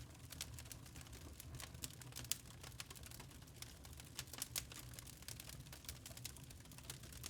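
Wood fire in a fireplace crackling and popping irregularly, with a few sharper pops about two seconds in and midway, over a low steady rumble of the burning fire.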